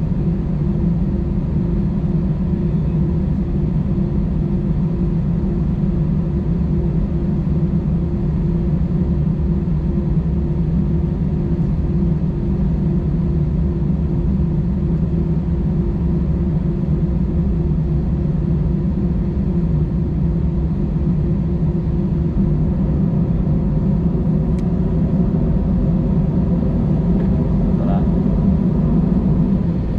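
Airbus A320-216 cabin noise with the CFM56 engines at low power: a steady low rumble and hum. Near the end a tone starts rising in pitch.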